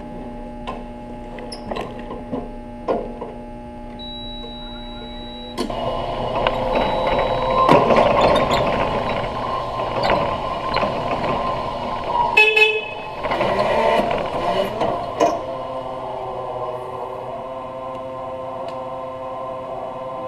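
Forklift (lift truck) running with a steady hum and scattered knocks, getting louder about five seconds in, with a short horn toot about twelve seconds in.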